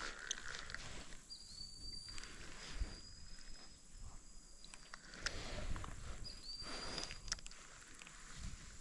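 Quiet outdoor ambience on a calm lake from a kayak, with a few faint clicks and light handling knocks. A thin, high, steady whistle runs for about four seconds, then comes back for about a second.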